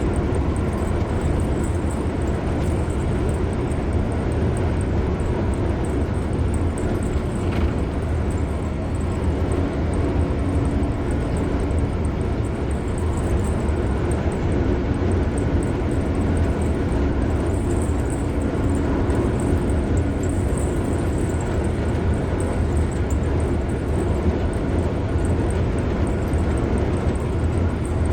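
A car driving along at steady speed: continuous road and tyre noise with a deep, even rumble.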